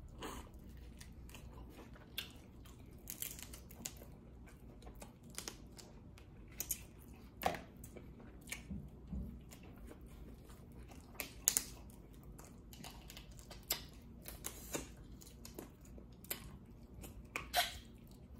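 Close-miked mouth sounds of someone eating lobster tail meat: faint chewing with short wet smacks and clicks at irregular intervals.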